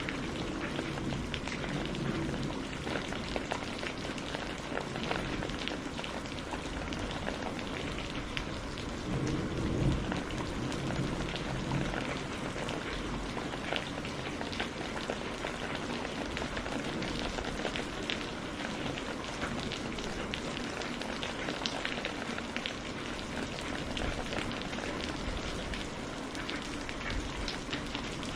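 Steady rain falling on a hard surface, with many individual drops ticking. A low rumble of distant thunder swells about ten seconds in.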